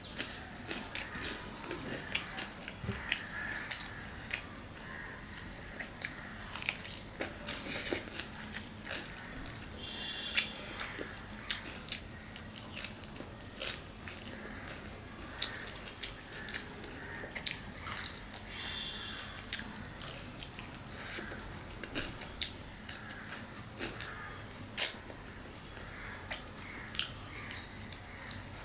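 A person chewing and biting mouthfuls of tundul ruti flatbread with mutton curry, eaten by hand. Irregular wet smacking clicks and soft crunches run throughout.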